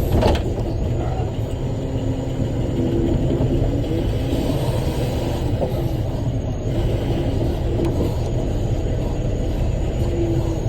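Big rock truck's engine and drivetrain running steadily, heard from inside the cab as a deep rumble, with a brief knock right at the start.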